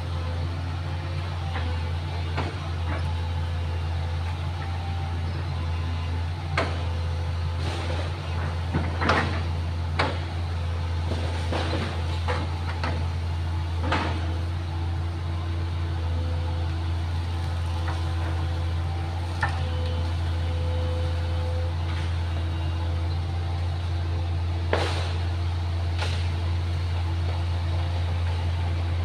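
Excavator's diesel engine running with a steady low drone while it works, with scattered sharp knocks and clunks. The knocks cluster from about seven to fourteen seconds in and come again near twenty-five seconds.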